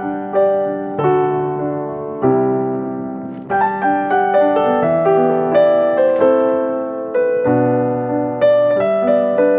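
Background piano music: a slow melody over sustained chords, with notes struck and left to ring.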